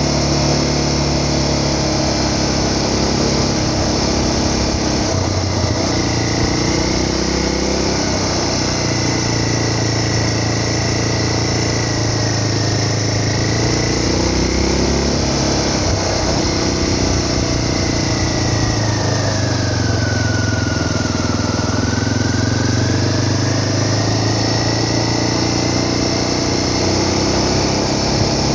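A vehicle's engine running steadily under way, its pitch rising and falling gently with speed, over a constant rushing noise.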